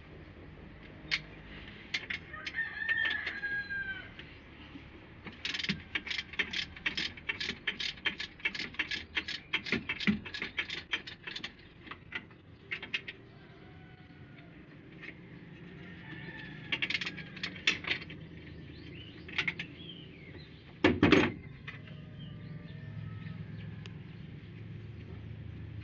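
Workshop tool noises: a run of sharp metallic clicks, about four a second for some six seconds, then scattered clicks and one heavy knock about twenty-one seconds in. A rooster crows in the background early on.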